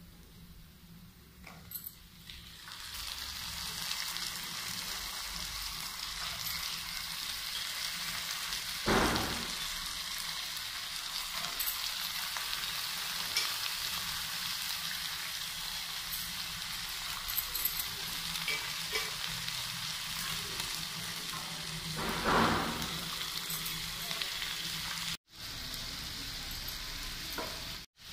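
Raw diced potatoes frying in hot oil with onions in a pan: a steady sizzle that swells about three seconds in as the potatoes go in, with a spoon stirring and scraping the pan twice. The sound cuts out briefly twice near the end.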